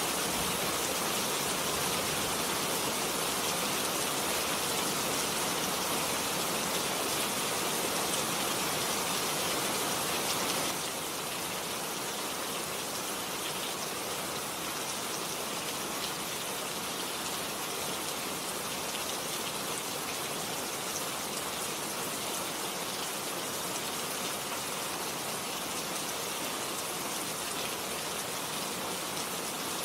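Steady rain falling, an even dense hiss of drops with no distinct pattern; it becomes slightly quieter about a third of the way in.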